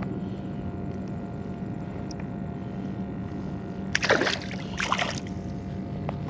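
Water splashing twice, about four and five seconds in, over a steady low hum.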